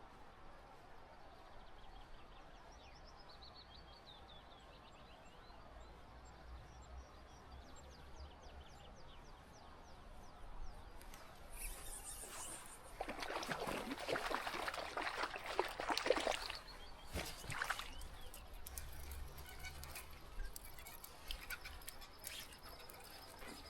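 Steady rush of river water with a small songbird singing a rapid trill early on. About halfway, a few seconds of loud, close rustling and clattering, then lighter scattered clicks.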